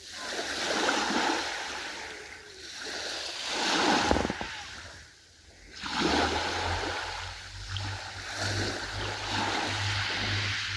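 Ocean waves breaking and washing back, the surf swelling and fading several times, loudest about four seconds in. A low pulsing rumble runs under it from about six seconds in.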